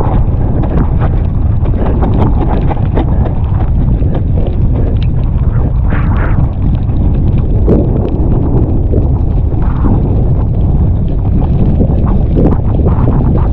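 Strong wind buffeting the microphone in a loud, steady low rumble, with frequent rattles and knocks from a mountain bike jolting over rough, stony trail.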